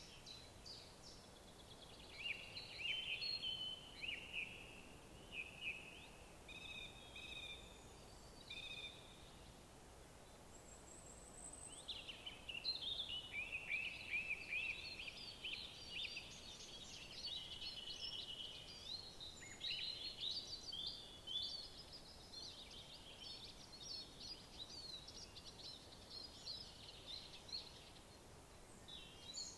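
Songbirds singing, many quick chirps and trills overlapping, with a lull around ten seconds in, over a faint steady outdoor background.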